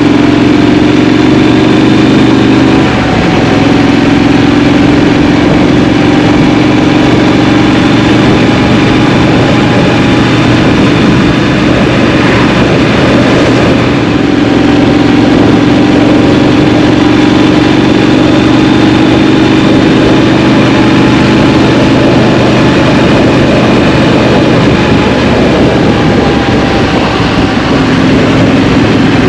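Scrambler motorcycle engine running during city riding, recorded close up. The engine note holds fairly steady, rises and falls slowly in pitch with the throttle, and drops briefly about three seconds in.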